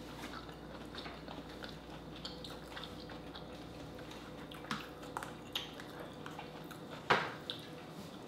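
Close-up eating sounds: chewing and small clicks of fingers handling boiled seafood, with a sharper click about seven seconds in.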